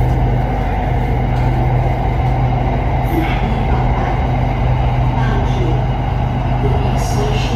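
SRT Red Line electric commuter train running between stations, heard from inside the carriage as a steady rumble with a constant low hum.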